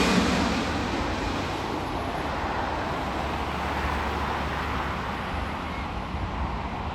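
Jet airliner's roar dying away after it passes, settling into a steady rumble of distant traffic.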